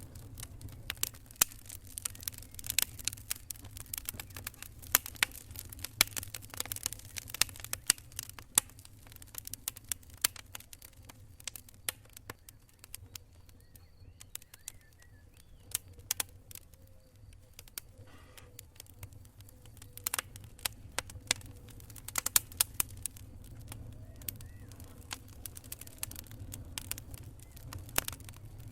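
Campfire of burning wood crackling: irregular sharp pops and snaps, thick in the first half, sparser in the middle and bunching again later, over a steady low rumble.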